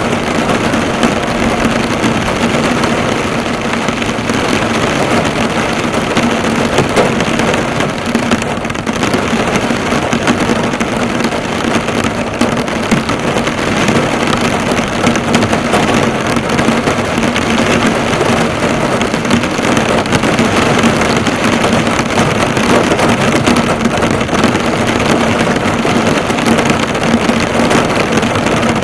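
Heavy rain falling on a car, drops bouncing off the bonnet in a dense, steady patter heard from inside the car. A steady low hum runs underneath.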